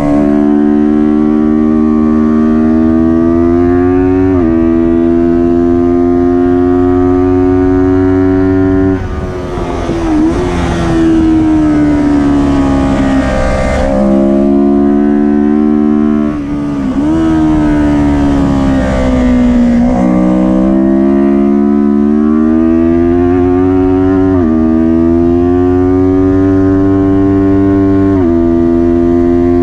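Kawasaki Ninja 400's parallel-twin engine under race load. It climbs in revs with quick upshifts near the start and about four seconds in. It then shuts off and drops through several downshifts for a corner in the middle, and pulls hard again with more upshifts toward the end.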